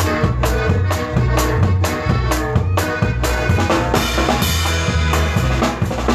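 Conjunto band playing an instrumental passage: a drum kit keeps a steady beat over a running bass line and melody instruments, with no singing.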